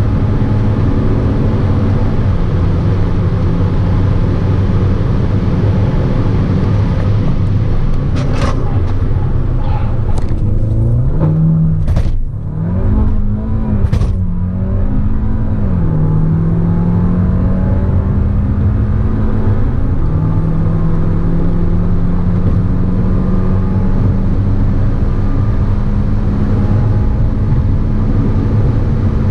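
Audi A3's turbocharged EA888 gen3 four-cylinder running hard under load, with road noise. The engine note drops in pitch about two seconds in, then dips and jumps several times around the middle with a few sharp clicks, and climbs slowly after that.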